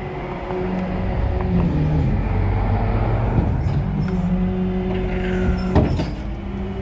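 A vehicle engine idling steadily, with a sharp knock about six seconds in.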